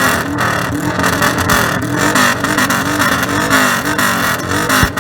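Straight-piped exhaust revved in a rhythmic throttle 'call', the engine pitch rising and falling again and again in quick succession.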